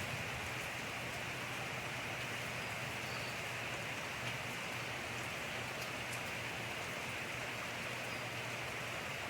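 Steady rain falling, an even hiss with faint drop ticks here and there.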